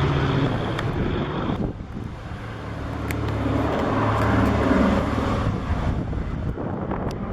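Piston engines of a twin-engine propeller warbird droning overhead. The sound drops away abruptly about two seconds in, then a fainter engine drone swells and fades again.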